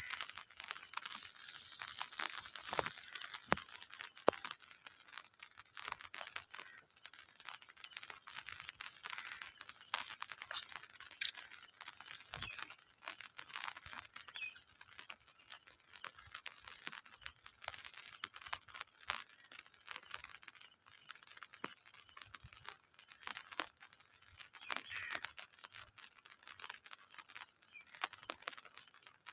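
Rain pattering: an uneven stream of small drop ticks and clicks over a light hiss.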